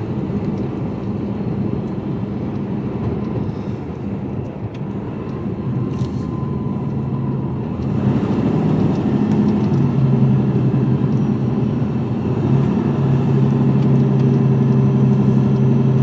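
Mercedes-Benz Actros lorry's diesel engine running, heard from inside the cab as a steady low hum that gets louder about halfway through.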